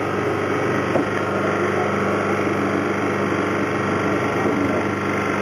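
A machine's motor running steadily with a constant hum, typical of cleaning equipment working during an air conditioner cleaning.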